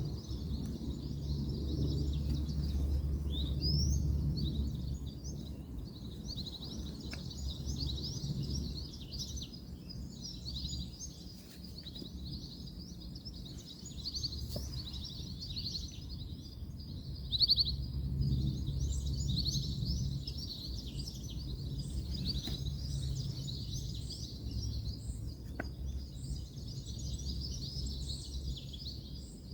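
Many birds chirping and twittering without a break, over a steady low rumble of distant road traffic.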